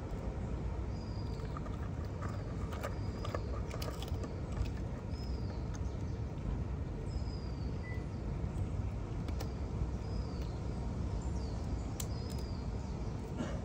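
Outdoor ambience: a steady low rumble, with a bird repeating a short high call that falls slightly in pitch about every one to two seconds. A few faint clicks come and go.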